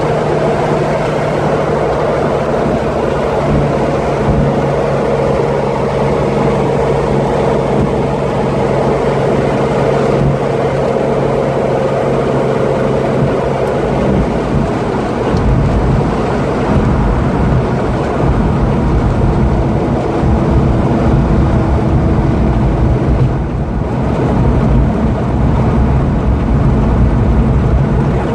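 1968 Ford Mustang 'Eleanor' engine running, steady at first, then from about halfway through a deeper, rougher rumble takes over.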